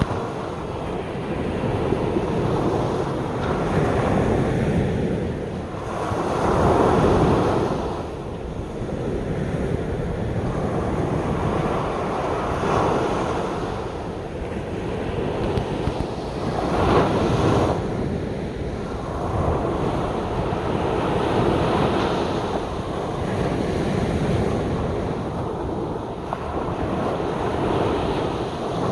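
Sea waves breaking and washing up a beach, the surf swelling every few seconds, with wind buffeting the microphone.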